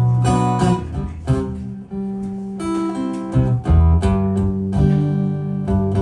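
Acoustic guitar strummed and plucked, chords struck every second or so and left to ring.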